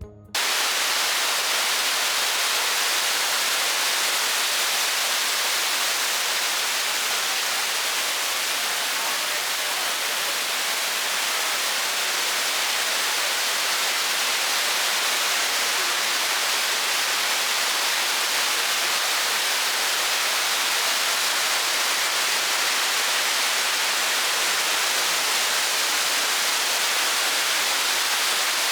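Waterfall rushing: a steady, unbroken hiss of falling water that cuts in suddenly.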